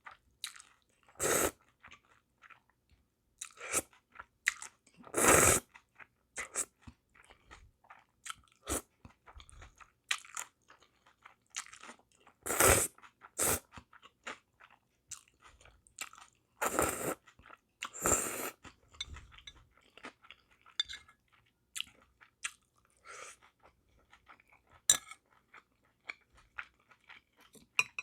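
Close-miked eating of spicy sea snail bibim noodles: irregular wet chewing and crunching, with several louder bites standing out.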